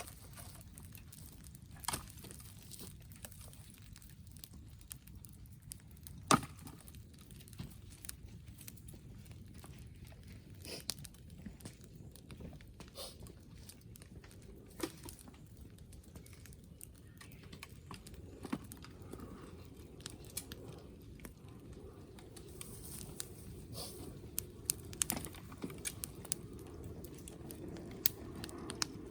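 Wood fire crackling, with scattered sharp pops and snaps over a low steady background; the loudest pop comes about six seconds in, and the pops come thicker near the end.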